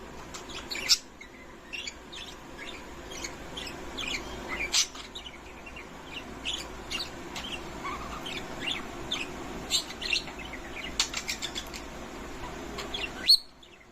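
Budgerigars chirping and chattering: a busy stream of short, high chirps, with a few sharp louder calls about a second in, near the middle and just before the end.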